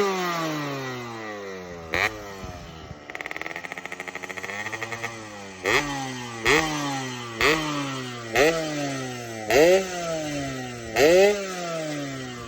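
Yamaha RX-King's two-stroke single-cylinder engine blipped through its stock exhaust, which has been gutted ('bobok'). The engine revs up sharply and falls back, about half a dozen times, roughly once a second in the second half. In between it runs steadily with a fast pulsing exhaust note.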